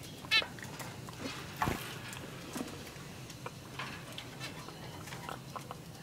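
Small caged pet birds calling: one loud, short, nasal call about a third of a second in, then scattered soft chirps and clicks. There is a thump at about a second and a half.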